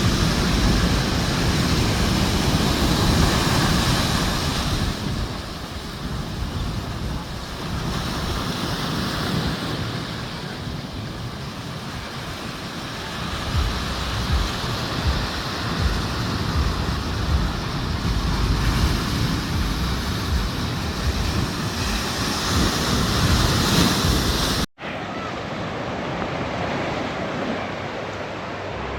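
Ocean surf breaking on a beach, with wind buffeting the microphone in a low rumble. Near the end the sound cuts out for an instant and the surf carries on a little quieter.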